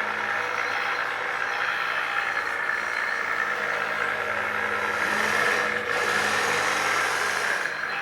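1/12 scale RC steel road roller running, its sound module playing a diesel engine sound over the whirr and rattle of its electric drive motor, gearbox and drum vibration motor. The noise grows louder about five seconds in and drops back near the end.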